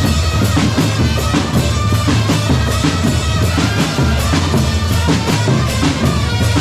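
A marching drum corps playing: bass drums and snare drums beat a steady rhythm under a held melody line.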